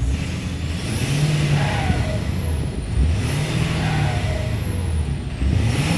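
2012 Ford F-250's 6.7 Powerstroke diesel engine revved and let back down about three times, a high whine rising and falling with each rev. The engine has a cylinder 5 imbalance code, which was traced to a cracked intake valve.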